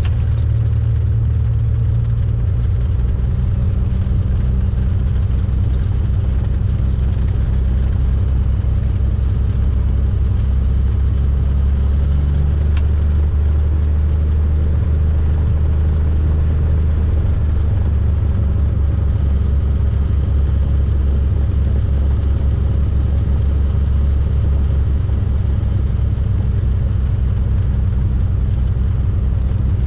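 Cessna 172's piston engine and propeller running at a steady drone, deep and unchanging throughout.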